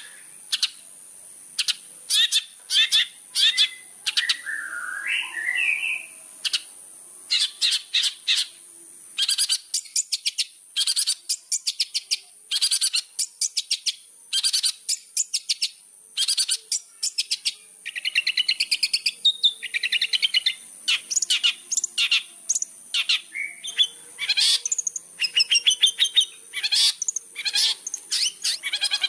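Long-tailed shrike (cendet) singing in a fast-paced, chatter-filled song: rapid runs of short sharp chirps with pauses, broken twice by longer warbled phrases. This is the kind of loud, full song used as a lure to goad other shrikes into answering.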